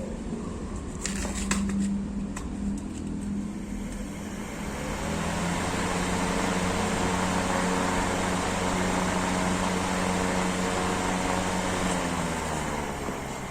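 Katsu 12-inch industrial exhaust fan, fitted with a used air-conditioner outdoor fan motor, running with a steady motor hum and a rush of air. A few sharp clicks come in the first couple of seconds. The air rush swells about four seconds in, holds steady, and eases off near the end.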